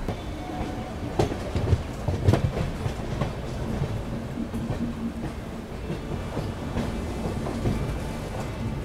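Indian Railways passenger train running over the track, its wheels clattering on the rails, with a few sharp knocks from the wheels about one to two and a half seconds in over a steady low rumble.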